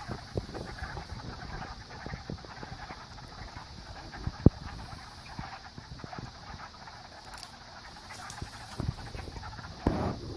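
Frogs calling together in a dense, steady chorus. Scattered low knocks run through it, and there is one sharp click about four and a half seconds in.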